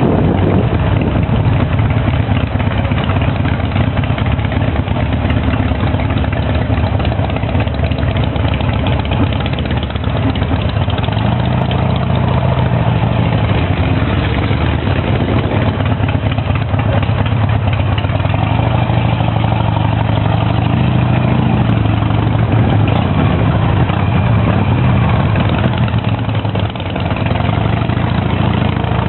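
Harley-Davidson V-twin motorcycle engine idling steadily, its pitch shifting slightly a few times.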